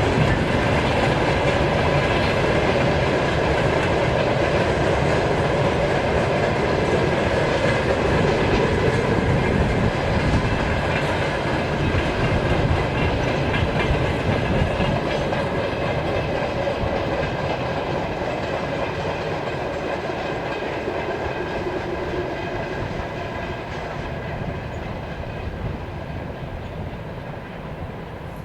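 Freight train wagons rolling past on the rails with a clickety-clack over the rail joints, growing gradually fainter over the second half as the train moves away.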